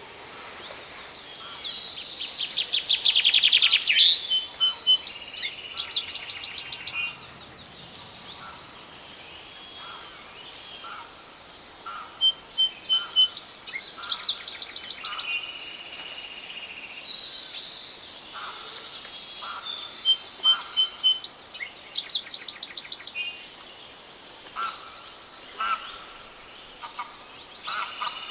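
Several songbirds singing at once in a forest, their chirps and fast trills overlapping. The singing is busiest and loudest in the first few seconds and again in the middle.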